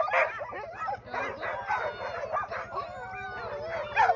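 A team of young sled-dog puppies in harness barking, yipping and howling all at once, many overlapping calls bending up and down in pitch: the excited din of a dog team.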